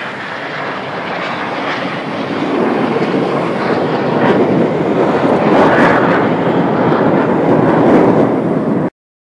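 Jet aircraft flying past: a broad engine noise that grows steadily louder as it approaches, then cuts off suddenly near the end.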